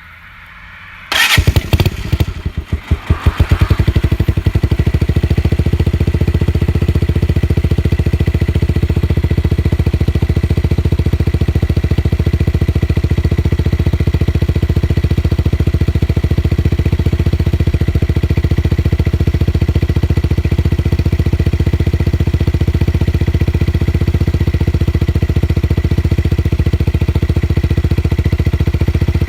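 Yamaha motorcycle engine starting about a second in, blipped a few times through the exhaust, then settling into a steady idle.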